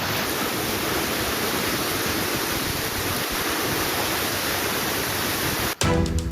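Heavy rain pouring down: a steady, dense hiss. It cuts off abruptly near the end, where music begins.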